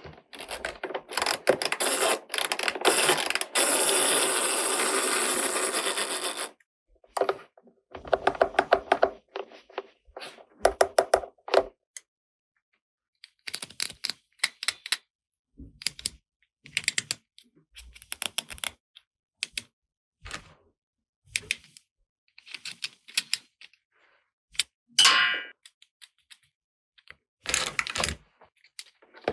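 Small plastic toy pieces and packaging handled close up: about six seconds of continuous rustling, then a long run of irregular sharp clicks and taps.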